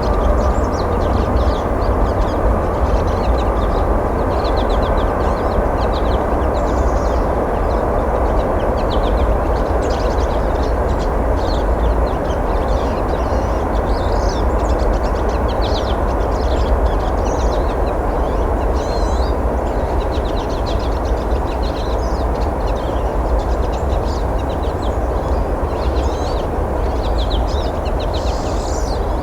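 Many small birds giving short, quick calls again and again over a steady low rumble.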